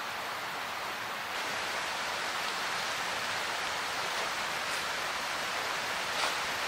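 Steady rushing noise that steps up in level about a second and a half in, with a single sharp click near the end.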